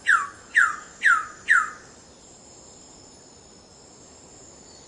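Wilson's bird of paradise calling: a series of loud, downslurred notes, about two a second, four in the first two seconds before the series stops. A steady high insect drone runs underneath.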